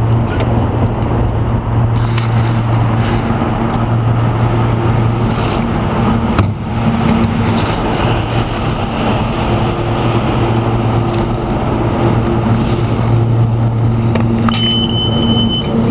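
City street traffic with a steady low hum running under it. A short high-pitched beep sounds near the end.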